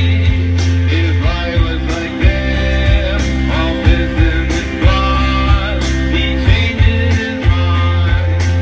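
Live rock band playing loud through the festival PA: electric guitars, heavy bass, a steady drum beat and a sung vocal line, recorded from the crowd.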